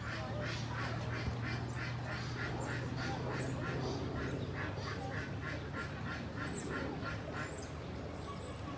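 Ducks quacking in a long, regular run of short calls, about two to three a second, fading out near the end.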